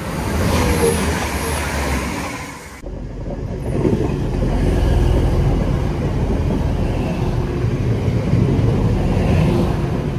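A Class 185 diesel multiple unit running through a station at speed: a deep diesel engine drone with wheel-on-rail rumble as the coaches pass close by. The sound changes abruptly about three seconds in, after which the passing noise holds steady and loud.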